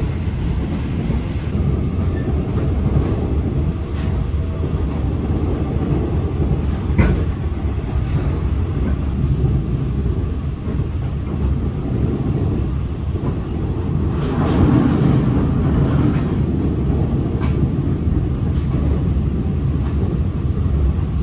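Passenger train coach running along the track, heard from inside the carriage: a steady low rumble of wheels on rail, with a few sharp knocks and a louder stretch about two-thirds of the way through.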